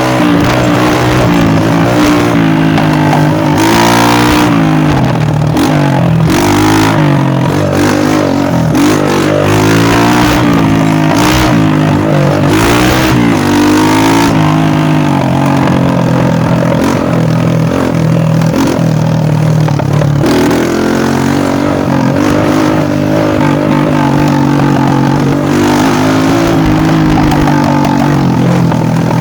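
Dirt bike engine running and revving, its pitch rising and falling again and again, with a few brief bursts of noise.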